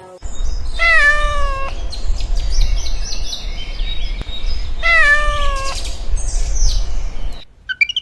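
A cat meowing twice, about four seconds apart, each meow under a second long and gently falling in pitch, with higher, shorter cries in between and a low rumble of background noise underneath.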